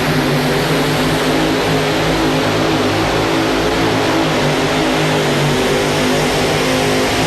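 Modified pulling tractor's three naturally aspirated, carbureted Ford engines running hard together under load during a pull: one loud, steady drone.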